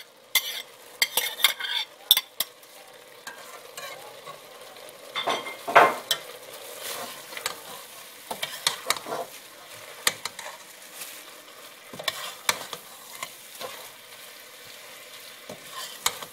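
Minced meat and chopped onion sizzling in oil in a stainless steel pot while a metal spoon stirs them, with frequent knocks and scrapes of the spoon against the pot. The mix is being given a light sauté, not browned.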